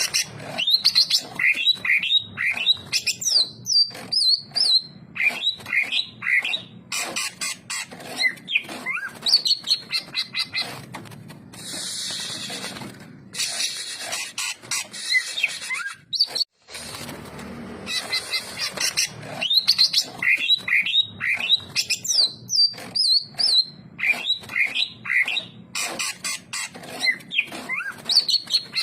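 Cucak ijo (green leafbird) singing: fast, chattering runs of rising and falling whistled notes, strung together almost without pause. The song breaks off briefly about two-thirds of the way through, then starts again.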